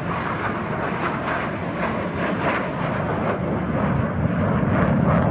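Display-team airplanes flying past, a steady loud rumbling rush of engine noise.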